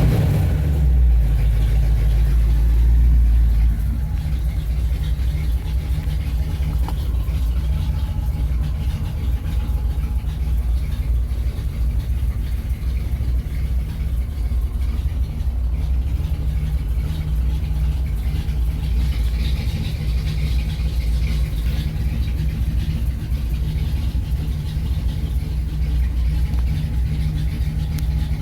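Engine of a customised 1948 Ford coupe idling after a cold start, a little louder for the first few seconds and then settling into a steady idle.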